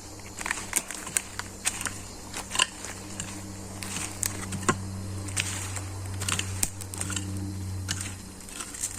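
Metal detector giving a steady low tone that cuts off about eight seconds in, over scattered crackles and clicks of dry leaves and debris being brushed and handled while checking a target.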